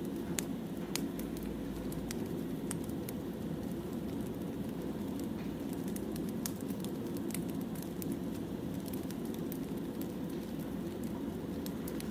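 Burning firewood crackling: a steady low rush with many sharp pops and snaps scattered through it.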